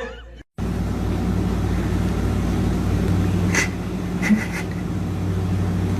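Steady low rumble of a car, as heard from inside its cabin, starting abruptly about half a second in, with a few brief faint high chirps partway through.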